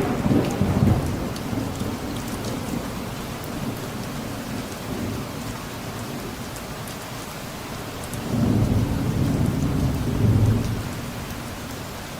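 Steady rain falling, with the patter of drops, and rolling thunder: a rumble dying away at the start and another swelling up about eight seconds in and fading near the end.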